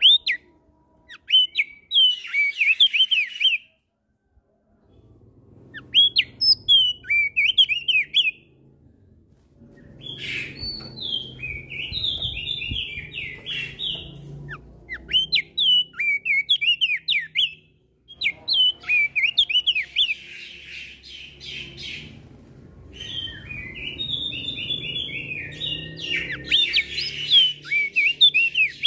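Crested white-eye (opior jambul) singing in repeated bursts of quick, chattering chirps, each burst a few seconds long with short pauses between, answered by other birds. A faint low rumble lies under the song in stretches.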